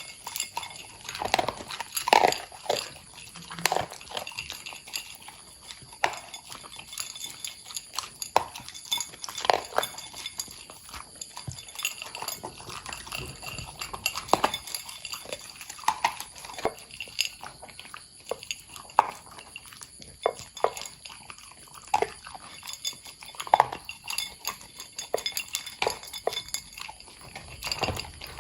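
Corgis eating dry kibble and freeze-dried toppings from their bowls: irregular crunching and chewing, with an occasional clink of a bowl.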